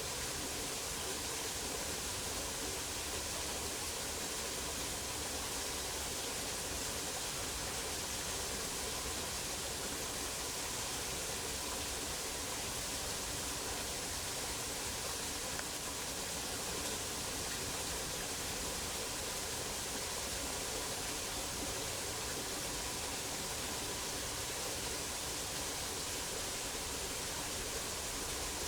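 Steady, even hiss with no distinct events, brightest in the high range.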